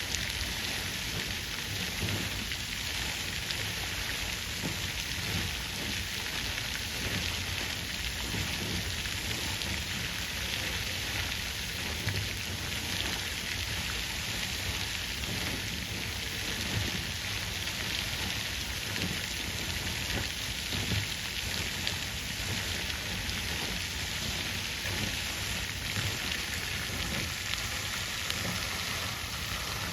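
Water fountain splashing steadily: falling water spattering into a pool in an even, continuous hiss with a low rumble beneath.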